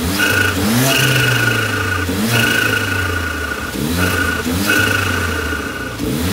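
Mercedes-AMG CLA45's turbocharged four-cylinder engine being revved in repeated short throttle blips, each rising and then settling back, about every second and a half. It is fitted with a K&N drop-in air filter.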